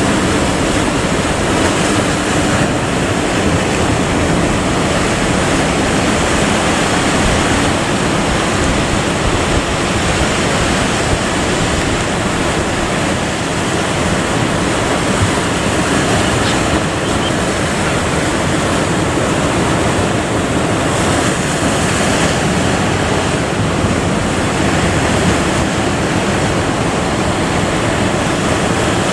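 Steady, loud rushing of wind and sea waves.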